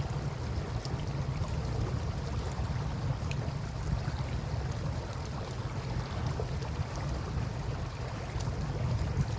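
Steady river water sound with a heavy low rumble, and a campfire crackling in a few faint, scattered ticks.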